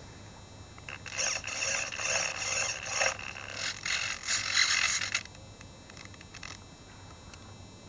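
Irregular scraping and rubbing noises close to the onboard camera's microphone, in bursts for about four seconds before stopping abruptly. After that only a faint steady hum with thin high tones is left.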